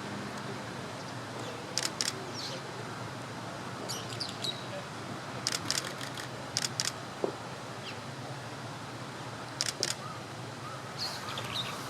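Short, sharp high-pitched bird chirps in small clusters of two to five notes, coming every few seconds over a steady low background hum.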